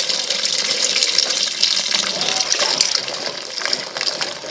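Water gushing into the tub of a Brastemp BWL07A top-load washing machine as it fills, with the lid off. A steady splashing hiss that eases slightly near the end.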